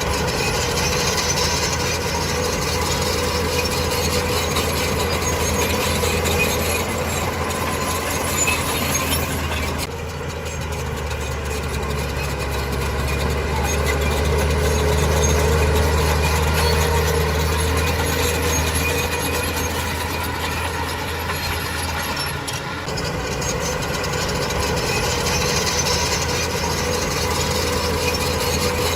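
Heavy diesel earthmoving machine running under load, a steady low drone that swells for several seconds around the middle, with high metallic squealing over it like crawler tracks. The sound changes abruptly twice.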